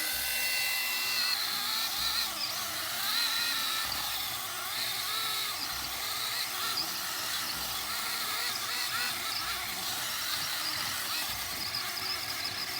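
Natiddy cordless mini chainsaw running and cutting through thick old rose trunks, its motor whine wavering in pitch under load.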